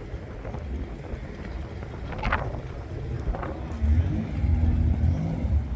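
Low rumble of a car engine running, getting louder about four seconds in, with two short sharper sounds about two and three and a half seconds in.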